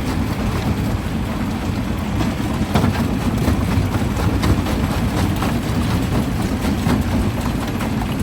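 Primary jaw crusher running under load: a steady heavy low rumble with irregular sharp knocks and cracks of rock being broken between the jaws.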